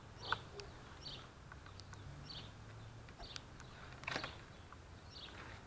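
A small bird chirping in the background: short high chirps repeating roughly once a second, with a few faint clicks.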